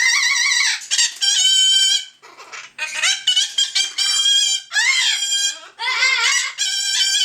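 Pet parrot making loud, drawn-out calls, about seven in a row with short gaps between them.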